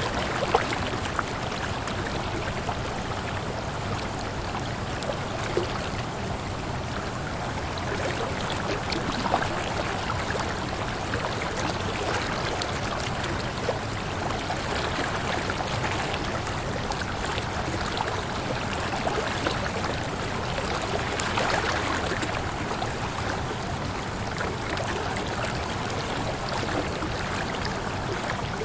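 Waterfall: a steady rush of falling water, with small splashes flickering through it.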